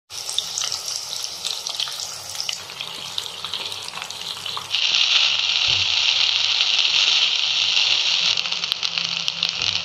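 Chicken pieces deep-frying in bubbling oil, a sizzle with small crackles. About five seconds in it cuts to a louder, steady sizzle of fried rice being stirred in a hot pan.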